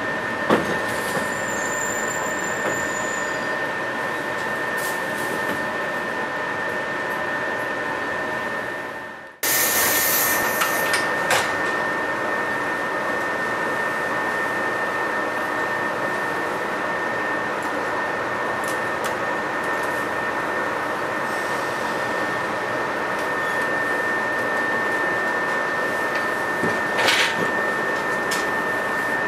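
Cabin running noise of a JR 117 series electric train under way: a steady rumble of wheels and traction motors with a thin, constant high tone and a few sharp clicks. The sound fades out briefly about nine seconds in and cuts back in suddenly.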